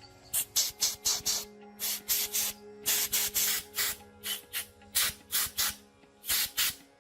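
Rapid, short rasping strokes of scrubbing or abrading a part by hand, about three to four a second in uneven runs, over faint steady tones.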